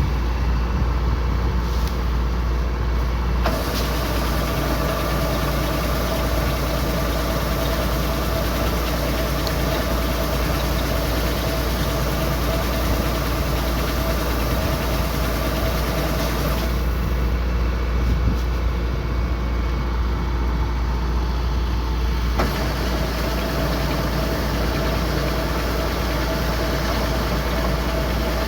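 Kubota combine harvester running steadily: a deep engine drone with a steady whine over it. The sound changes abruptly about three seconds in, again near 17 seconds and again near 22 seconds.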